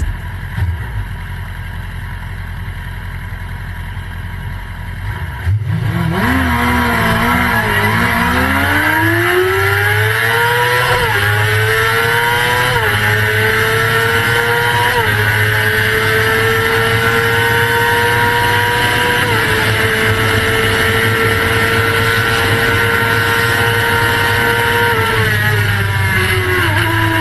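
Motorcycle engine with a low steady hum at first, then accelerating hard through the gears about five seconds in, its pitch climbing and dipping briefly at each upshift. It then holds a steady high note at speed and eases off near the end.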